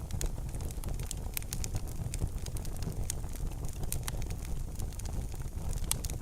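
Wood fire crackling in a fireplace: frequent sharp snaps and pops, some louder than others, over a steady low rumble of the burning.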